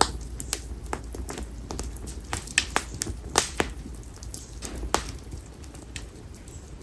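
Split konara oak firewood burning in an open fire, crackling with irregular sharp pops, about a dozen, the loudest a little before and after the middle, over a low steady rumble.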